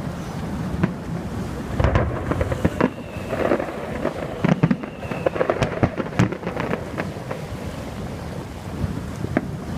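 Aerial fireworks going off: a quick run of sharp bangs and crackles, densest in the middle, with scattered single reports before and after, over a steady low rumble of wind and surf.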